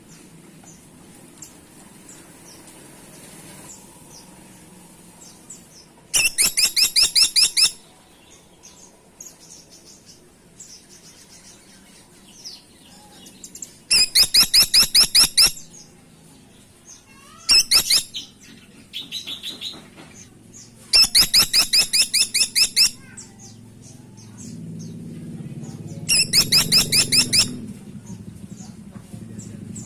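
Caladi tikotok woodpecker calling in loud, rapid rattling runs of sharp, high notes. There are five runs, each lasting about one to two seconds, with a fainter short call between two of them. A low hum runs underneath.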